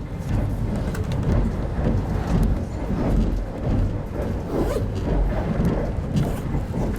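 Running noise inside an RZ25T (25T-series) railway passenger coach: a steady low rumble from the moving train.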